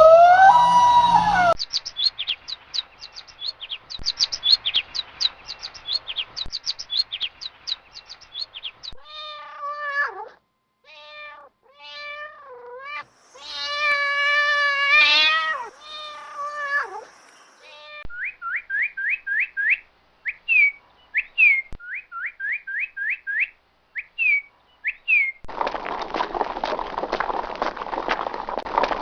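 A string of animal sounds. First a rapid series of high bird chirps, then a cat meowing several times, then more quick bird chirps. A dense noisy stretch starts near the end.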